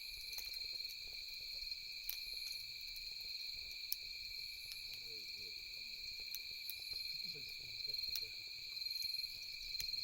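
Night insects, crickets or similar, trilling steadily in a chorus, with scattered sharp pops and crackles from a wood campfire.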